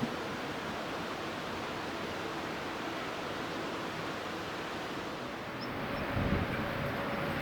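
Steady outdoor rushing noise. Near the end a Rhaetian Railway train starts to be heard approaching: a steady hum comes in, then a low rumble rises.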